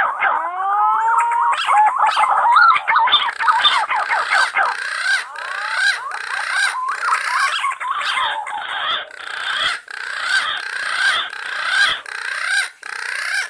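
Several punai (green pigeons) calling together in a dense chorus of overlapping whistled, wavering and gliding calls, with one rising call with overtones in the first second and a half. The sound cuts off suddenly at the end.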